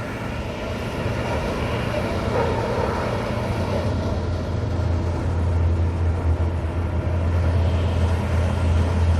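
A steady low engine drone with outdoor background noise, the engine sound growing stronger about halfway through.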